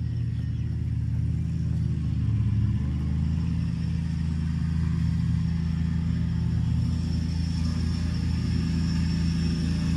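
Petrol lawnmower engine running steadily, its pitch shifting slightly a few seconds in.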